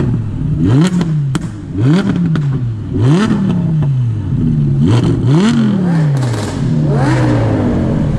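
Audi R8's V10 engine revved while stationary in a series of about five or six short blips, each rising in pitch and falling back, settling to a steady idle near the end.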